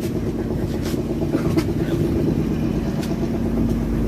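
Boat engine running steadily while the fishing boat is underway.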